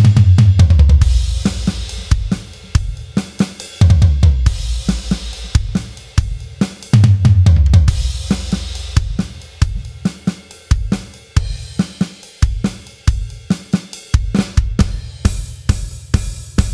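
Acoustic drum kit playing a groove: a steady run of hi-hat, snare and bass drum strokes, with crash cymbal and bass drum accents at the start, about 4 s in and about 7 s in, then a busier fill-like run of strokes near the end.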